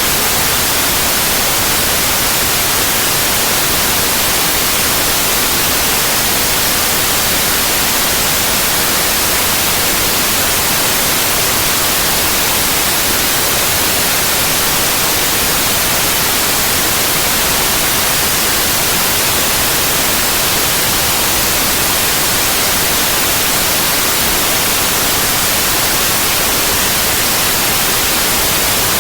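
Synthetic white noise: a steady, even hiss across all pitches, unchanging and with no interruptions.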